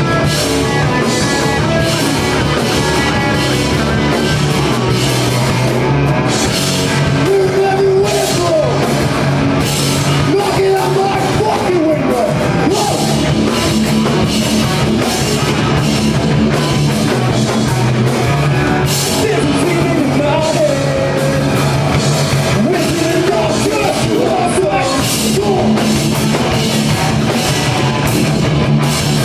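Live rock band playing loud and continuous, with guitars and a drum kit, and a singing voice in places.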